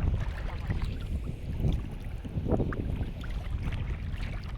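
Wind rumbling on the microphone over a steady outdoor noise of wind and water, with a few faint short sounds in it.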